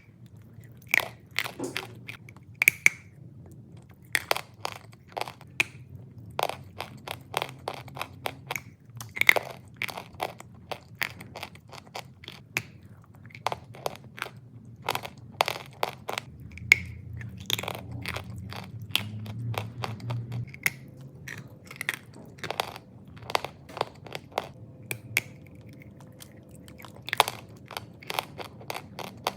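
Chalk crunching: sharp, irregular cracks and crunches, at times several a second, over a low steady hum.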